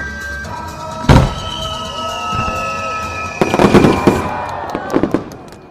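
Aerial fireworks going off: one heavy boom about a second in, then a rapid run of crackling bangs a couple of seconds later and a few more near the end.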